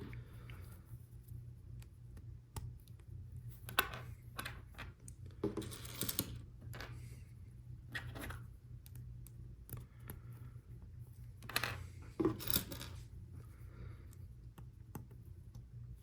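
Plastic Lego Technic pieces clicking and clattering as they are handled and pressed together: scattered sharp taps, with longer rattling stretches around six and twelve seconds in.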